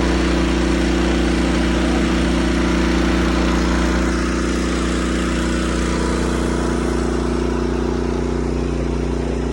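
Engine of a water pump running steadily with an even hum, easing slightly about four seconds in.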